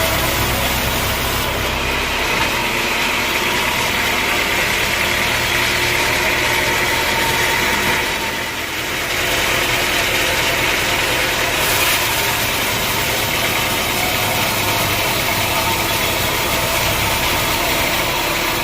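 Sawmill machinery running steadily, with a brief dip in level about halfway through.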